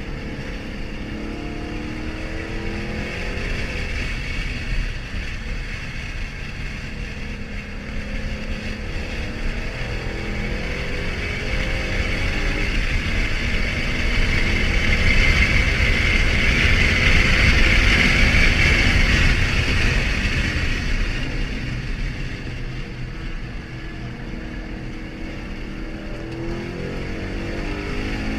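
Car engine running, its pitch climbing several times as it revs. The sound grows to its loudest about halfway through, then fades back down.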